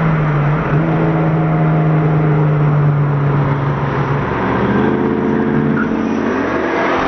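Car engine under hard acceleration, its note held high, then a gear change about four seconds in and the pitch climbing again toward the end.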